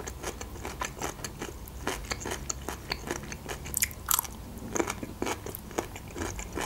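Close-miked chewing with wet mouth clicks, and a crunchy bite into a small pickled gherkin about four seconds in.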